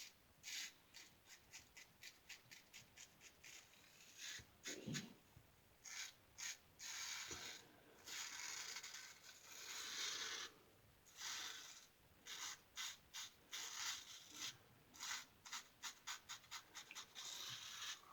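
1914 Ever-Ready single-edge safety razor scraping stubble through lather in short strokes, quick runs of them at the start and end and a few longer strokes in between.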